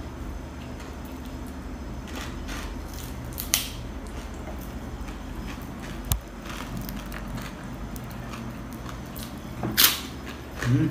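Crunching of crispy chicharon (deep-fried pork rinds) being bitten and chewed: a few short, sharp cracks, the loudest one near the end, over a steady low hum.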